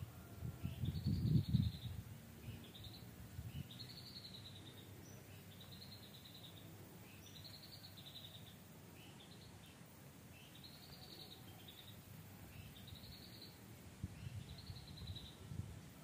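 A wild bird repeating a short, high, arched call roughly once a second. A low rumble on the microphone is loudest about a second in.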